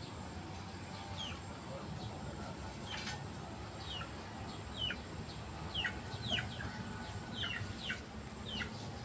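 Small birds giving short, quick downward-sliding chirps, repeated again and again, over a steady high-pitched insect drone.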